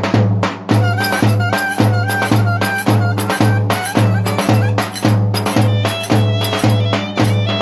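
Turkish folk dance music played by a band: a melody line over a steady bass-and-drum beat at about two beats a second.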